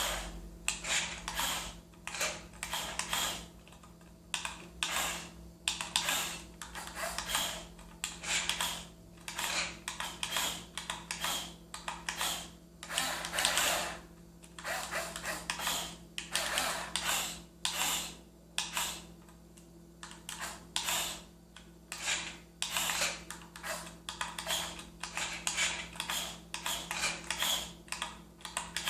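Small electric motors and gearboxes of radio-controlled scale models whirring in short stop-start bursts, as in slow manoeuvring, over a steady low hum.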